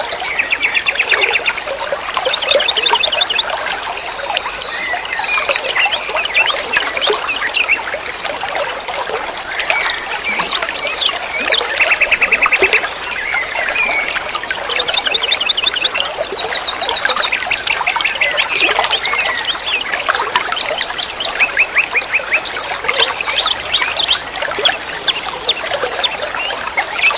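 Songbirds chirping and twittering in rapid trills, over a steady trickle of running water.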